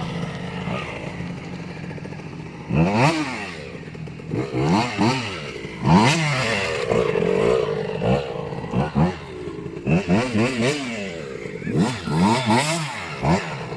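KTM 85 SX two-stroke dirt bike engine revving in repeated throttle bursts, its pitch climbing and falling sharply each time. There are several blips in quick succession near the end.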